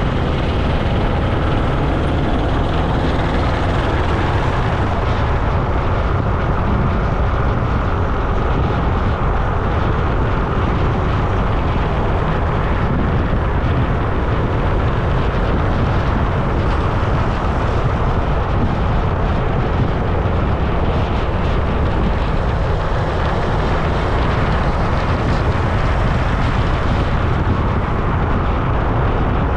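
Steady rush of wind and road noise on an action camera's microphone while riding along a road, a dense low rumble with no breaks.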